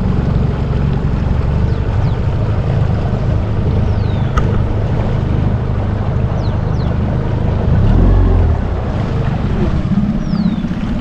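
Boat's outboard motor running steadily under way, with wind and water noise; a brief low surge about eight seconds in. A few short, high, falling whistles sound over it.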